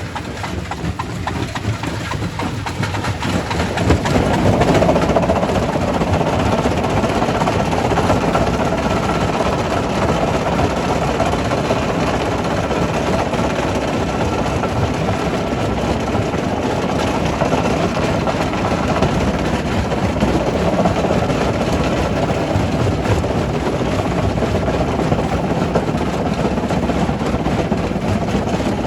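Quarry primary rock crusher running, a steady heavy machine noise with dense crunching and clattering of stone, growing louder about four seconds in.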